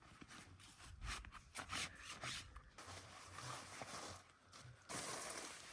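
Rubbing and scraping sounds: a quick run of short strokes, then a steadier rustle.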